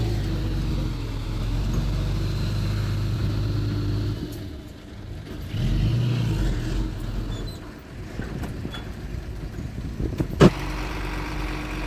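Diesel engine of heavy earthmoving machinery running steadily, fading about four seconds in, swelling briefly, then dropping back to a lower hum. A single sharp knock comes near the end and is the loudest moment.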